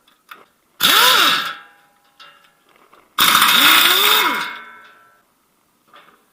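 Handheld electric power tool run in two short bursts, its motor speeding up and winding down each time, the second burst longer.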